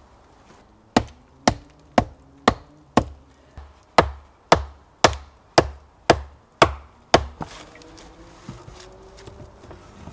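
A tool striking wood in a steady series of about thirteen blows, about two a second. They stop a little past halfway.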